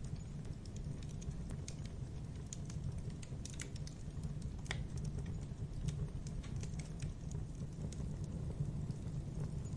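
Wood fire of burning logs crackling in a fireplace: irregular sharp pops and snaps over a steady low rumble of the flames, with one louder pop near the middle.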